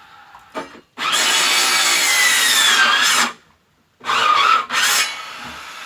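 Power saw cutting firewood. A cut of about two seconds, its motor whine dropping in pitch as it works through the wood, then a short pause and a second, shorter burst.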